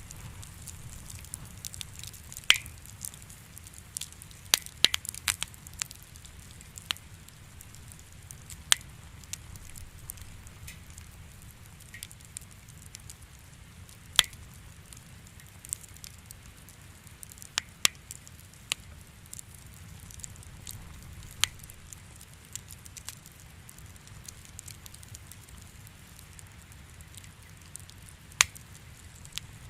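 Wood fire in a fireplace crackling: sharp pops and snaps at irregular intervals, a dozen or so, over a faint steady low rumble of the burning.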